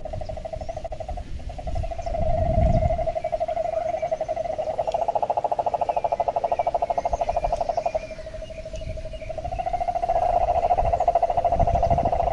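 Frogs calling in a loud, continuous rapid trill on one mid-pitched note. It breaks briefly near the start and thins for a moment past the middle, with faint bird chirps behind and a couple of low rumbles.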